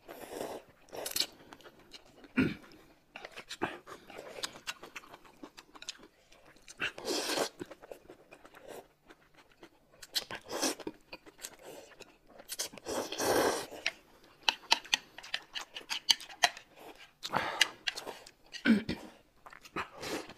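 A person chewing and biting crunchy food, with irregular crunches and a few longer noisy stretches of eating.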